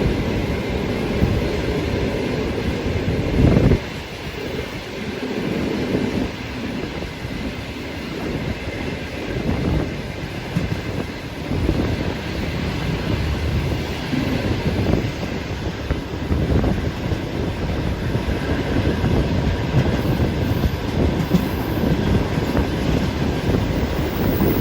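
Passenger train's coaches running on the rails, wheels clattering over rail joints with a steady rumble. There is a loud peak about three and a half seconds in, then it drops slightly.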